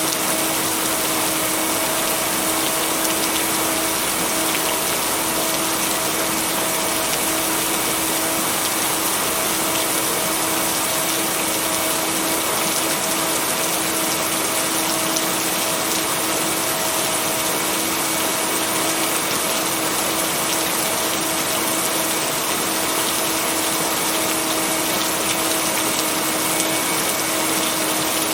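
Steady heavy rain, an even hiss with no thunder claps, with faint steady tones of the mixed-in binaural-beat layer held underneath.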